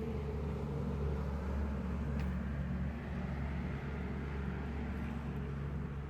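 A motor engine running steadily with a low hum, its level dropping away abruptly at the very end.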